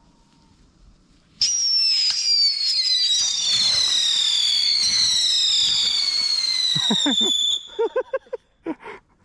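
Alien Escape whistling fireworks going off: a shrill whistle starts suddenly about a second and a half in, slides slowly down in pitch for about six seconds, then cuts off. A few short cries follow near the end.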